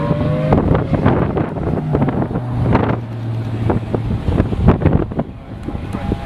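Strong wind buffeting the microphone in gusts over a low steady hum. A slowly rising siren tone carries on briefly at the start and fades out about half a second in.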